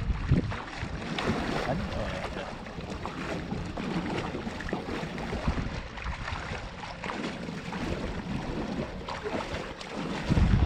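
Wind buffeting the microphone in gusts over a continuous wash of sea water, with gusts at the start and again near the end.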